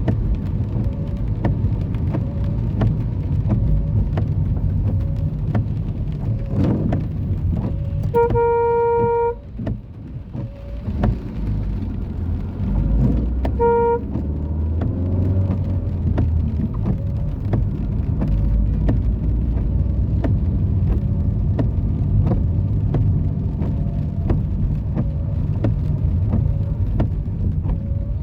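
City street traffic, a steady low rumble of engines. A car horn sounds for about a second, then gives a short second toot about five seconds later.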